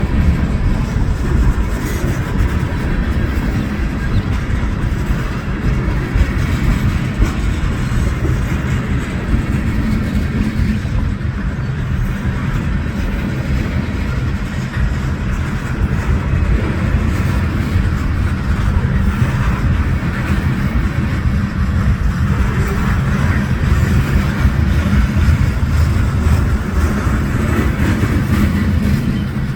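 A train rolling past a railroad crossing: a steady, loud rumble of railcars going by, unbroken for the whole stretch.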